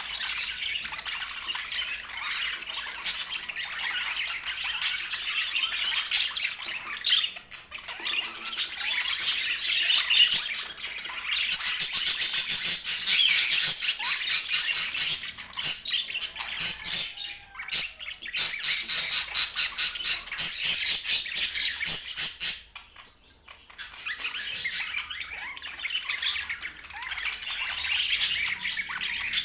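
Budgerigars chattering and squawking nonstop. Louder runs of fast, repeated squawks start about twelve seconds in and again around nineteen seconds, with short lulls in between.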